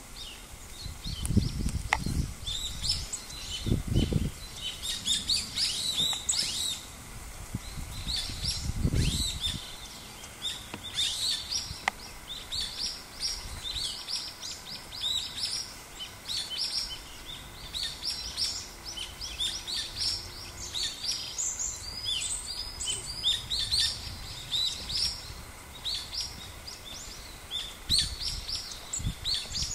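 Small birds chirping and twittering almost without a break, many short high calls overlapping. A few brief low rumbles come in near the start, around nine seconds in, and near the end.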